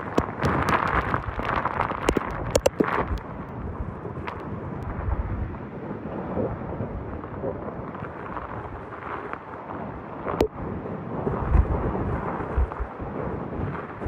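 Typhoon-force wind gusting and buffeting the microphone in a heavy, rumbling rush, with a few sharp knocks and clatters in the first few seconds and another about ten seconds in.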